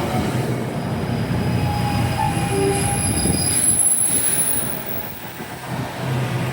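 NJ Transit train rolling past on the rails: steady wheel-and-track noise with faint thin, high wheel squeal, easing off briefly near the end before picking up again.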